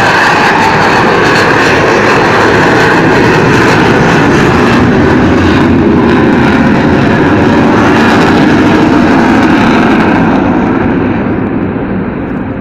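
Avro Vulcan jet bomber flying past, the loud noise of its four Rolls-Royce Olympus turbojet engines dropping in pitch as it passes, then fading away near the end.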